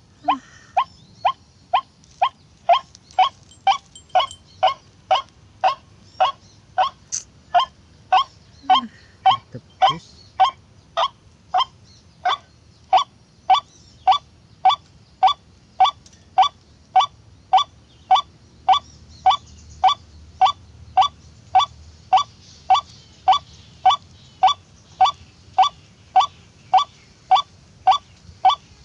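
White-breasted waterhen call: a steady, unbroken string of short repeated notes, about two a second.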